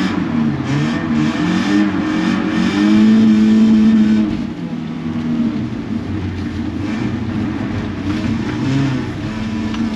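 Car engine heard from inside the cabin, revving up and down under hard driving. Its pitch climbs and is held high for about a second around three seconds in, then drops suddenly as the throttle comes off, and it runs on at lower, varying revs.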